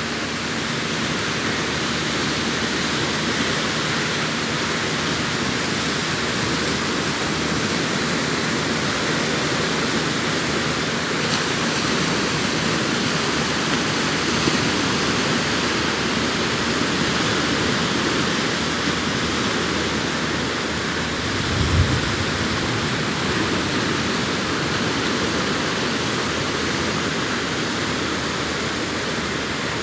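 Sea surf washing continuously onto a beach, a steady, even rush of breaking waves. A brief low thump a little over two-thirds of the way through.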